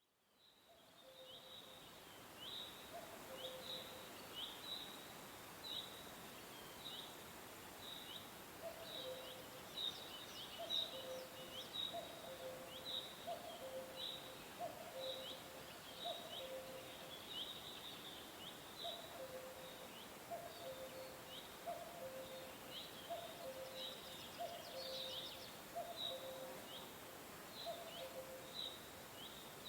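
Birds chirping in many short, quick high notes over a steady background hiss, with a lower two-note call repeating about once a second through most of it. The sound fades in from silence at the start.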